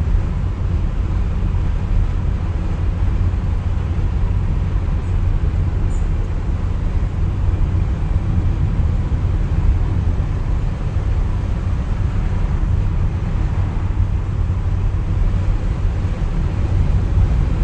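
Renault Twingo GT driving along a road: a steady low rumble of engine and road noise.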